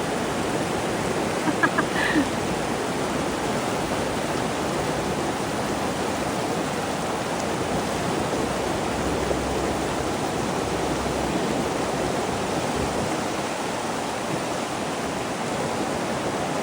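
Fast-flowing river water rushing steadily. A few short, faint higher sounds come about two seconds in.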